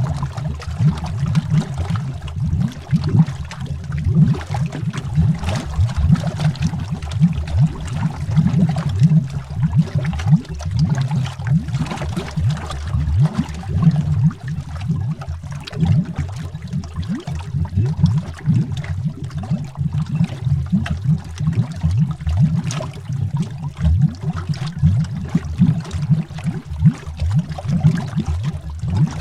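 Water bubbling heard underwater: a dense, continuous stream of bubbles, with a deep low churn and many small pops.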